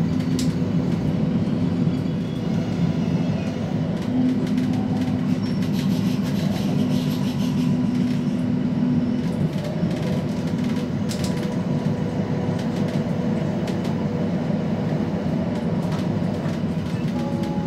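Running noise heard inside a Regio-Shuttle diesel railcar in motion: a steady low hum and rumble, with a few sharp clicks from the wheels on the track. The hum's tone changes about halfway through.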